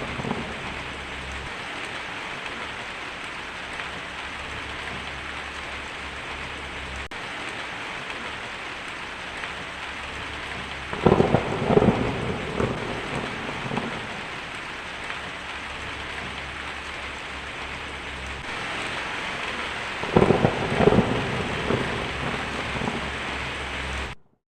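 Heavy rain falling steadily on a tin roof, with two rolls of thunder, one about eleven seconds in and another about twenty seconds in. The sound cuts off suddenly just before the end.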